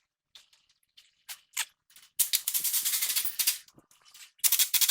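Ratchet wrench clicking rapidly in two bursts of a second or so each, tightening a nut on the steering linkage, with a few small metallic clicks before.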